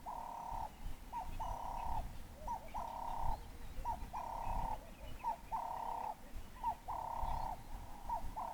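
A bird calling over and over, about seven times: each call is a short rising note followed at once by a longer buzzy note, repeating roughly every one and a half seconds.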